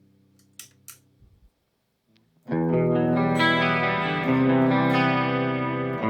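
Electric guitar played through a chorus pedal. After the tail of a note and two short clicks, a chord is struck about two and a half seconds in and rings on, and a new chord follows a couple of seconds later.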